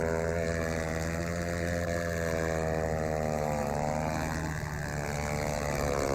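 Motorcycle engine running at steady high revs, its note sagging briefly about four seconds in, then rising again.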